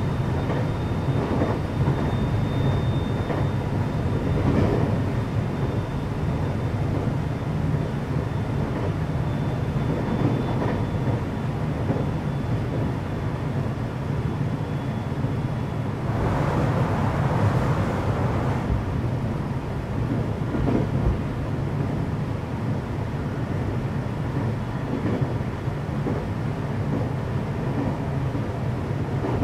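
Running sound inside a JR West 521 series electric multiple unit motor car (KuMoHa 521-34) under way: a steady low rumble of the wheels on the rails, with a faint high steady tone through the first half and a brief rush of louder noise a little past halfway.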